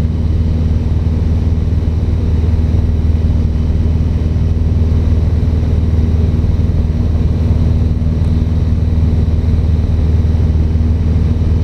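Cessna 150's four-cylinder Continental O-200 engine and propeller droning steadily in flight, with an even low hum that holds level throughout.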